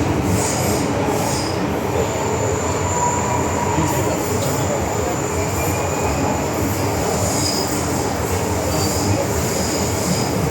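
Running noise inside an MTR Island Line M-Train carriage: a steady rumble of wheels and motors. A thin, faint high-pitched whine sits on top from about two seconds in until near the end.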